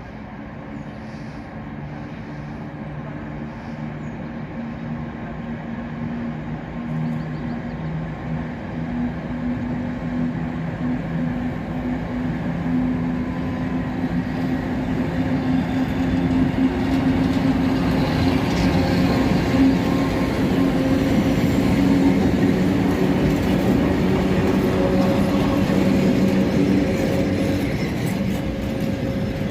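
2TE116 diesel locomotive pulling away under power: a steady, deep diesel engine note with a higher whine above it, growing louder as the locomotive comes closer.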